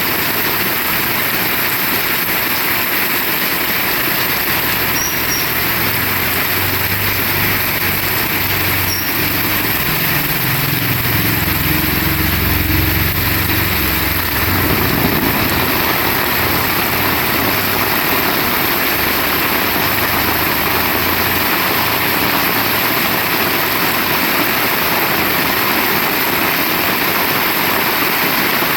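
Heavy rain falling steadily, with a vehicle engine approaching and passing, loudest about halfway through and gone by about fifteen seconds in.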